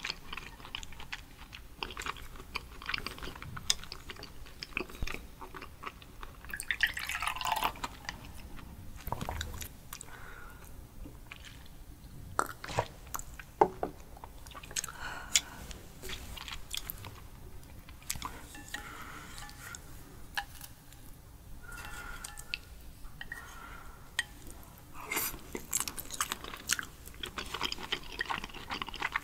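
Close-miked mouth sounds of eating raw seafood: wet chewing, smacking and swallowing, with scattered sharp clicks.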